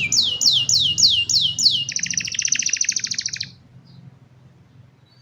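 Young domestic canary singing: a run of about six clear notes, each sliding down in pitch, then a fast rapid trill that stops suddenly about three and a half seconds in.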